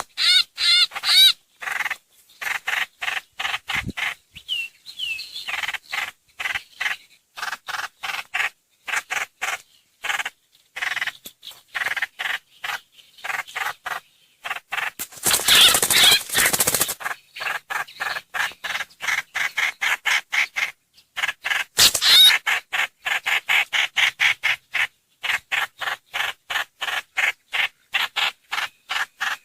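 Trao trảo (hoành hoạch) bird calls played as a lure recording: a steady run of short, harsh repeated notes, several a second, with two louder grating bursts of chatter partway through.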